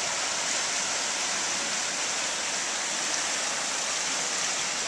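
Small stream swollen by storm rain, about two feet above its normal level, with its water rushing in a steady, even noise.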